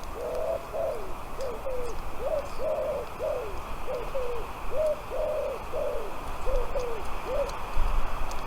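A bird calling a quick run of about fourteen short, low notes, roughly two a second, each rising and then falling in pitch. The run stops a second before the end.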